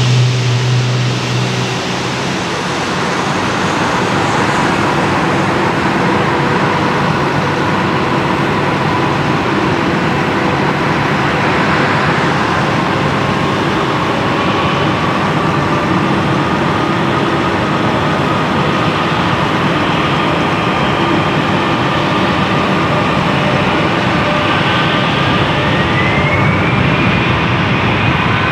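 Airbus A321-200 jet airliner's engines running: a steady roar with a whine that edges upward in pitch, and a higher whine that climbs near the end.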